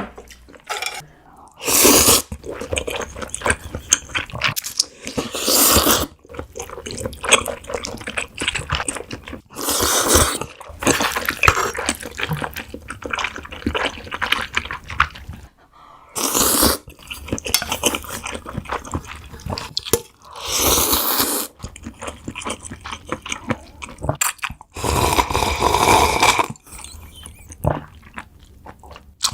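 Close-up slurping of mala tang noodles and broth, about six long slurps spread through, with chewing and small wet mouth clicks in between.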